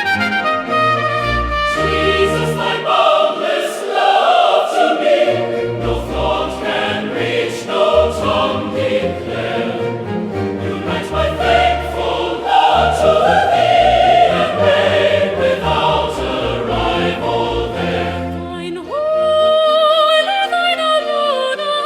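Choir singing a hymn with orchestral accompaniment, the voices holding long notes; near the end a single voice enters with a held, wavering note.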